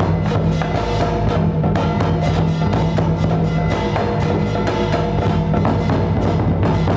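Music with dense, rapid percussion: drum and wood-block strikes over a sustained low tone.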